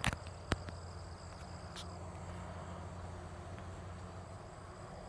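Insects trilling steadily in thin, high, unbroken tones over a low steady hum, with two sharp clicks about half a second apart right at the start.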